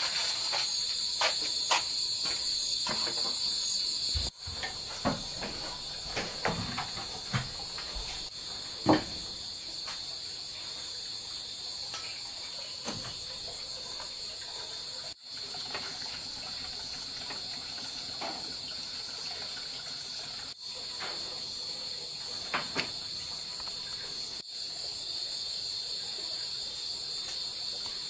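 Steady high-pitched insect chirring, with scattered light clicks and knocks on top, the loudest about 9 s in.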